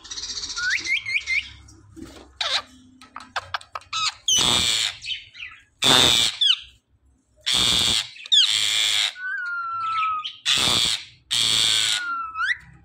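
A pet parrot squawking: short rising whistles in the first second or so, then about six loud, harsh screeches from about four seconds in, with a couple of thin whistled glides between them.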